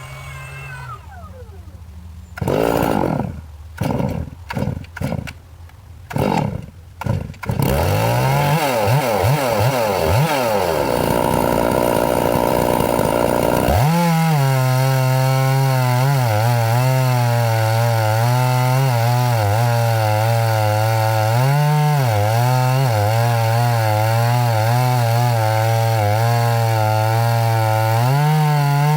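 Two-stroke chainsaw: idling at first, revved in several short bursts, then held at a loud, steady run from about halfway, its pitch wavering slightly as the load changes.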